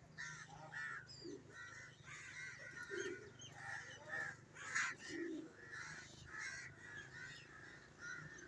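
Several crows cawing over and over, short calls following one another two or three times a second, some overlapping.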